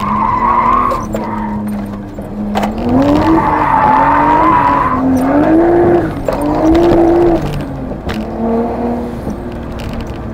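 Nissan Skyline R32's turbocharged RB25 straight-six revving hard through a drift, heard from inside the cabin, its pitch rising and falling. The rear tyres squeal through the first second and again from about 3 to 5 seconds in.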